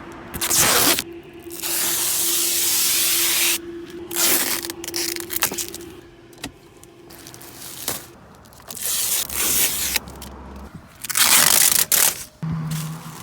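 Protective plastic film being peeled off a new car, a series of tearing rips, one long steady pull of about two seconds and several shorter ones with pauses between.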